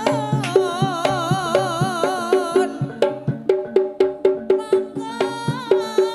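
Javanese folk-dance ensemble playing live: a shrill slompret (shawm) plays a wavering melody over drum strokes and a steady repeating gamelan pattern. The slompret drops out a little before halfway, leaving sharp drum hits, and comes back in near the end.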